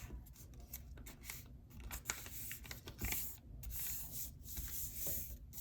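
A sheet of printer paper being folded and creased by hand, rustling and crinkling in irregular bursts.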